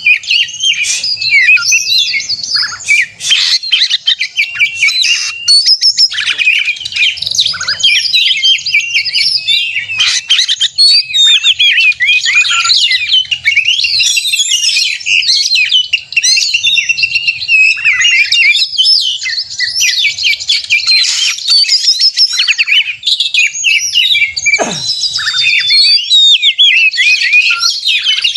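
Oriental magpie-robin (kacer) singing hard and without pause, in the aggressive territorial 'gacor narung' fighting song: a dense, fast run of varied high whistles, trills and chirps. About three-quarters of the way through, one long tone slides steeply downward.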